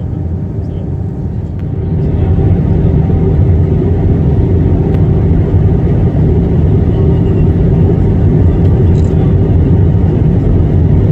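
Airliner cabin noise during descent: a steady low rumble of jet engines and airflow with a faint steady hum, growing louder about two seconds in.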